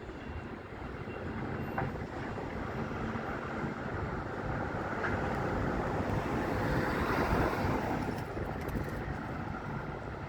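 Gusty wind buffeting the microphone, over a background rumble that swells about six to eight seconds in.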